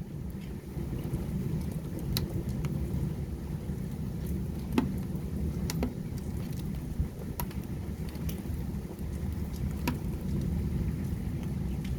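Heavy storm rain: a steady low rumble with scattered sharp drops ticking close by.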